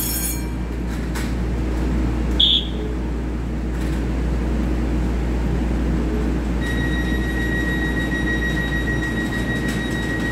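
Steady low hum of an EMU3000 electric train standing at an underground platform. A brief high beep comes about two and a half seconds in, and a steady high-pitched tone sounds for about four seconds from past the middle.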